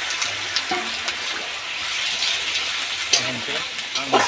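Raw chicken pieces sizzling in hot oil in a steel wok, a steady hiss with scattered crackles.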